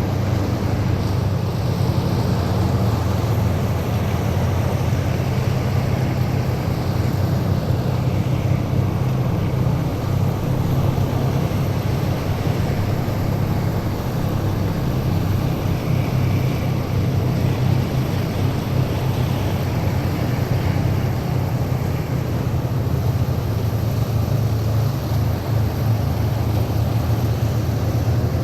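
A column of heavy military vehicles driving past, their engines giving a loud, steady, deep rumble with road noise over it.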